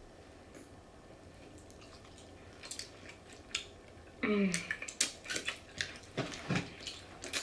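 Close-up eating sounds of fried chicken: scattered crunchy clicks and crackles of biting and chewing, getting busier after about four seconds. A short falling hum comes just after four seconds.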